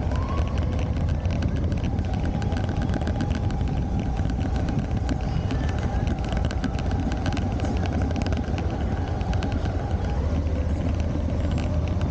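Suzuki V-Strom motorcycle engine running as the bike pulls away and rides through city traffic, a dense steady rumble. A steady thin whine sits over it and stops about ten seconds in.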